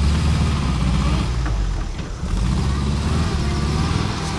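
Air-cooled flat-four engine of a WWII Volkswagen military vehicle running, with a brief dip in level about halfway through.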